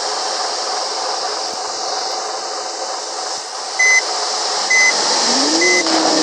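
Steady road and cabin noise in a moving old BMW. From about four seconds in, a short high electronic beep repeats about once a second. A lower tone rises briefly near the end.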